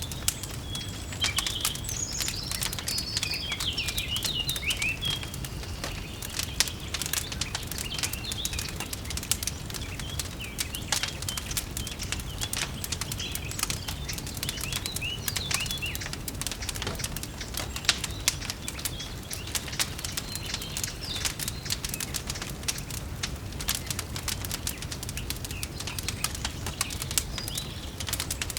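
Wood fire crackling in a fireplace with dense irregular pops and snaps, while small birds chirp now and then, most in the first few seconds.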